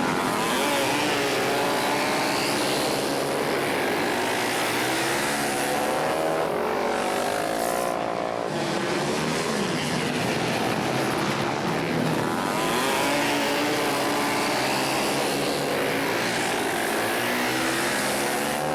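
Several flat-track racing motorcycles running around a dirt oval in a race, their engines rising and falling in pitch as they accelerate out of the turns and pass one another.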